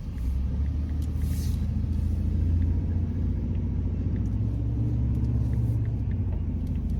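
Car cabin rumble: a steady low drone of engine and road noise heard from inside a car on the move.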